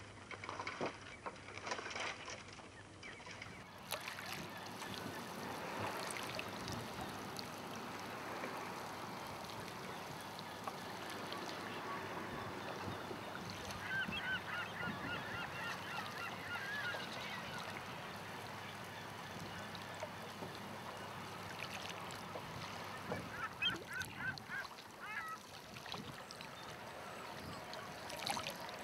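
Birds calling in two bursts of quick, wavering honking calls, one about halfway through and one near the end, over a steady outdoor background hiss.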